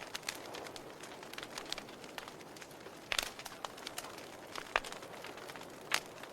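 Wood fire in a fireplace crackling, with sharp pops over a soft steady hiss; several louder pops come in the second half.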